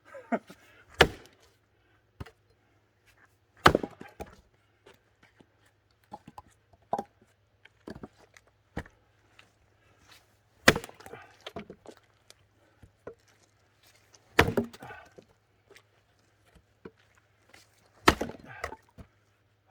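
Axe splitting firewood: five hard strikes a few seconds apart, with lighter knocks and clatter between them.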